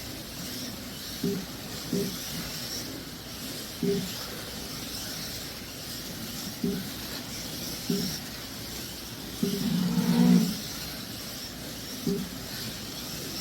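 1/32-scale Slot.it slot cars running on a track, their small electric motors and gears giving a steady high whir. Short, low pitched blips come every second or two, with a longer, louder burst about ten seconds in.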